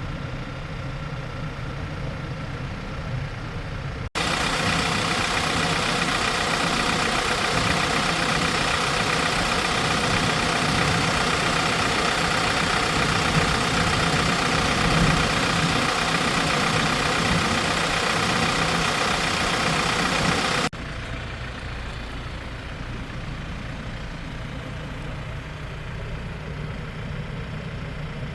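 Hyundai Porter II diesel engine idling steadily. About four seconds in, the sound cuts abruptly to a louder, brighter stretch of the same steady running, then cuts back to the quieter idle about two-thirds of the way through.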